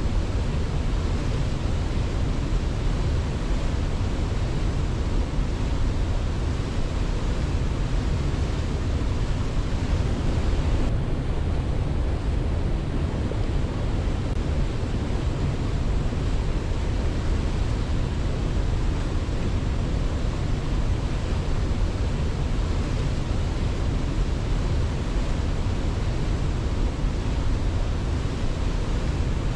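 Waterfall: a steady, unbroken rush of falling water, deepest in the low rumble.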